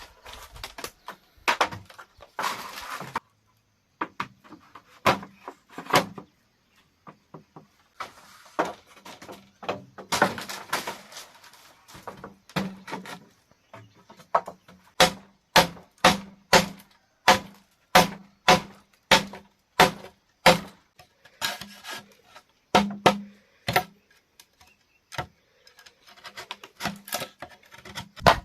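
A hand tool striking bamboo over and over: sharp knocks, each with a short hollow ring, coming about two a second through the second half. A short scraping stretch comes near the start.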